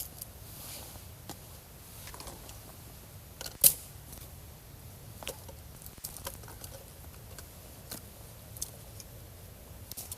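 Scattered sharp clicks and light taps over a low steady background, one much louder click about three and a half seconds in.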